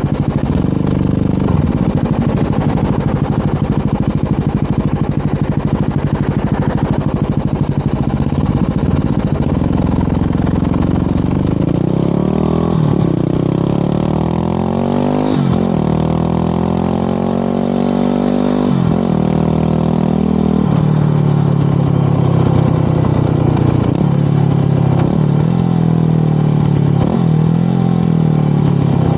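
Motorcycle engine under way, running steadily and then accelerating through the gears: the pitch climbs and drops sharply at each upshift, three times in quick succession about halfway through, then settles into a steady cruise with a couple of smaller shifts near the end.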